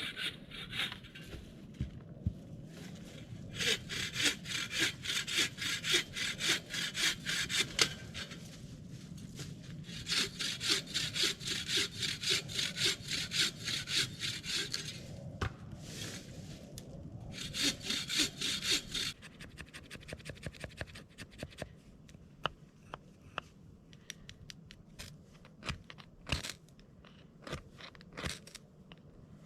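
Hand saw cutting through wood in quick, even back-and-forth strokes, in three bouts with short pauses between them. After the third bout only a few scattered knocks and clicks follow.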